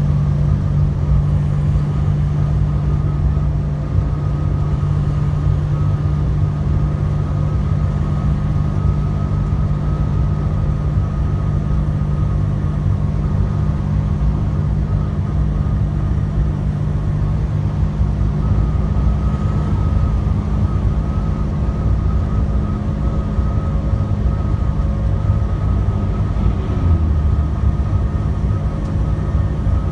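Commercial truck's diesel engine and road noise heard inside the cab while cruising: a steady low drone with a faint, even high whine over it.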